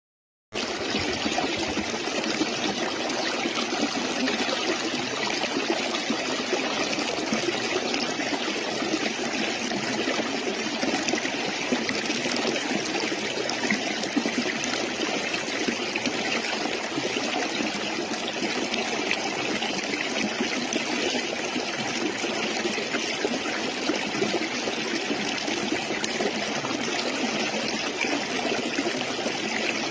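Stream water running and trickling steadily, starting abruptly about half a second in.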